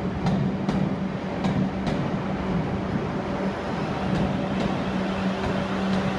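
A Class 444 electric multiple unit standing at the platform, its onboard equipment giving a steady low hum, with a few short sharp clicks.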